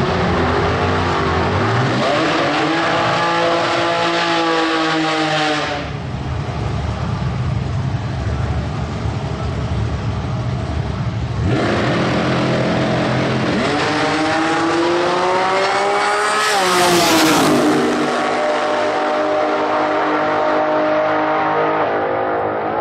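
V8 engine of a Ford Escort Top Sportsman drag race car at high revs. A first burst climbs in pitch and cuts off suddenly about six seconds in. After a few seconds of lower rumbling, a second run climbs to its loudest, highest point a few seconds before the end, then falls away.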